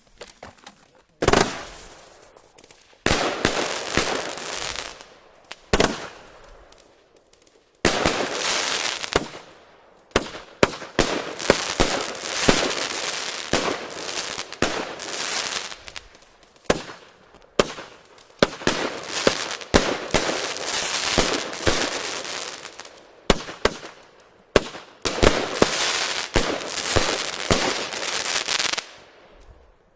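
Riakeo consumer firework cakes firing, shot after shot of sharp reports, each trailing off into crackle. The shots come in a run of bursts with brief lulls, beginning about a second in and dying away just before the end.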